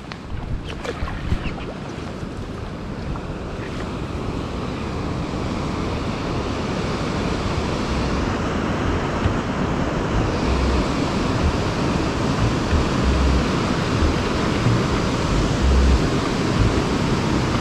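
Lake waves washing and breaking, growing steadily louder, with wind buffeting the microphone in low thumps. A few sharp clicks sound in the first couple of seconds.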